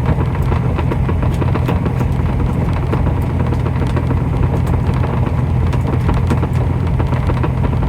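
Truck engine idling with a steady low drone, with light scattered scrapes and taps of a utensil pushing sauce through a metal strainer.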